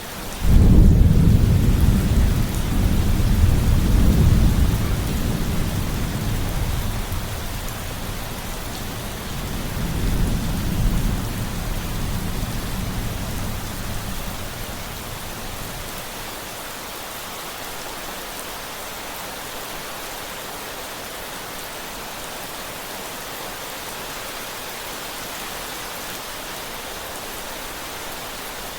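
Thunderstorm: a loud rolling thunderclap breaks about a second in, rumbles on with a second swell, and fades out over about fifteen seconds, leaving steady rain.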